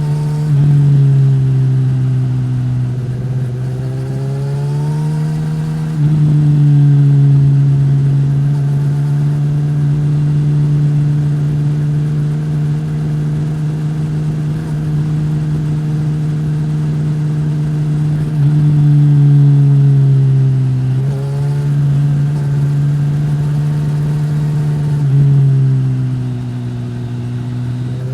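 2015 Suzuki GSX-S1000's inline-four engine through a Yoshimura R-11 slip-on exhaust, running under way. The revs climb a few seconds in and again past the middle, with a long steady stretch between and a drop to a lower steady pitch near the end.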